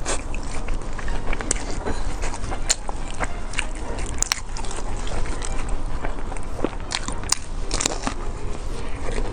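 Close-miked eating: biting into and chewing a crisp pan-fried beef pie, with irregular crunches and crackles from the crust.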